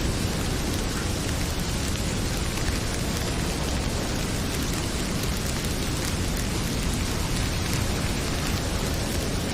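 Heavy rain pouring steadily with a deep low rumble under it, and a wood fire crackling in faint scattered pops.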